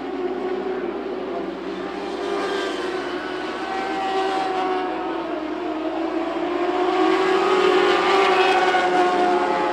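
Pack of Lightning Sprint cars racing at speed, their engines running at high revs. The pitch rises and falls as they go through the turns, and the sound gets louder toward the end.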